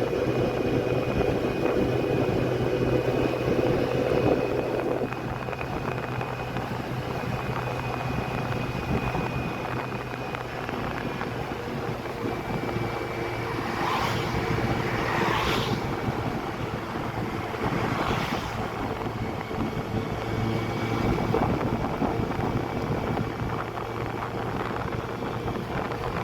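Motorcycle engine running steadily while riding, with wind rushing over the microphone; the engine note eases off about five seconds in, and a few brief whooshes pass later on.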